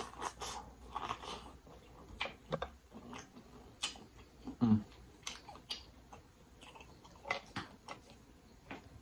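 Biting into boiled corn on the cob and chewing, close-miked: crisp clicks and wet smacking sounds scattered through, with a short hummed "mm" about halfway.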